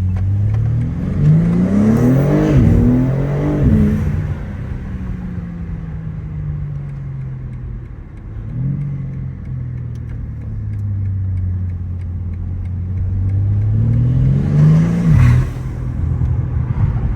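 BMW G80 M3's twin-turbo inline-six accelerating hard, its pitch climbing through quick upshifts about a second in, then falling away as it eases off. A short blip follows, and near the end it climbs again and cuts off sharply as the throttle lifts.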